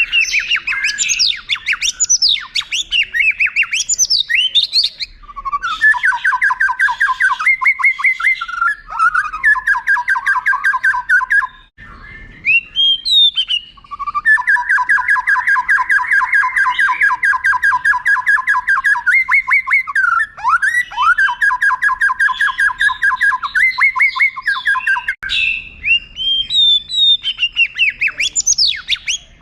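White-rumped shama singing: quick rising and falling whistled phrases, then long rolling trills of fast repeated notes, the longer one running about ten seconds, with a brief pause in between and more whistles near the end.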